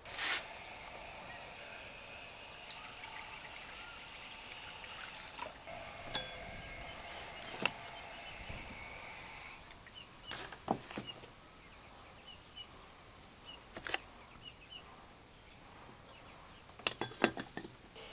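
Scattered sharp clicks and knocks of handling, with a cluster of them near the end, over a steady high-pitched outdoor hiss of insects.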